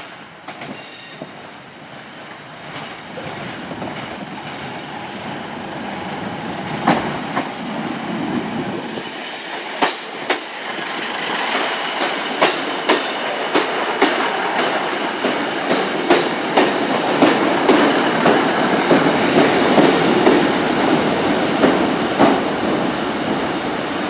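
Three-car Class 150 Sprinter diesel multiple unit arriving at the platform: its rumble grows steadily louder, with the clack of wheels over rail joints coming about twice a second in the second half.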